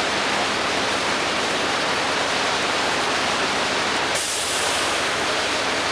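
Steady, even rushing hiss, with no tone or rhythm in it.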